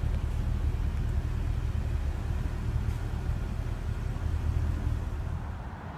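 Steady low background rumble with no distinct events, dropping away sharply near the end.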